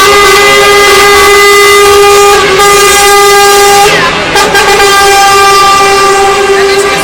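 Truck air horns blaring in long, held multi-tone blasts, breaking off briefly about four seconds in and then sounding again.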